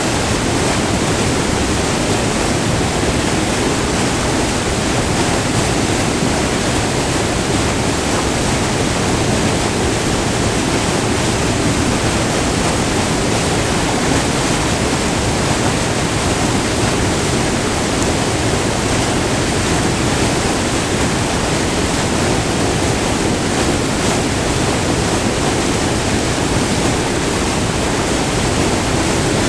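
White water rushing steadily over a short, multi-tiered waterfall, heard up close as a loud, even roar of water.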